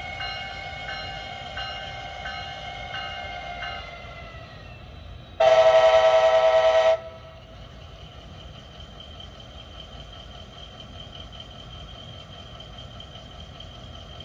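One long blast of an Amtrak ALC-42 Charger locomotive's horn, about five seconds in, starting and stopping sharply, as the train approaches from far off. Before it, a ringing tone with a regular beat fades away; after it, a steady hum carries on.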